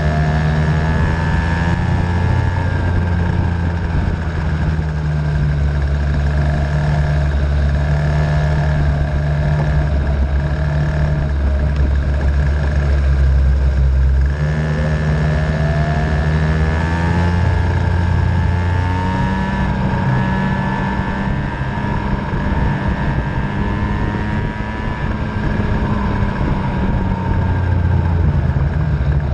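50cc two-stroke Venom racing engine running at speed: its pitch rises as it accelerates near the start and again about halfway through, then holds high, over a steady low drone.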